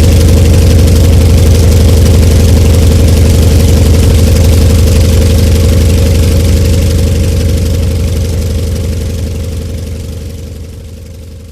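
Antonov An-2's nine-cylinder Shvetsov ASh-62IR radial engine running steadily after its start, fading away over the last few seconds.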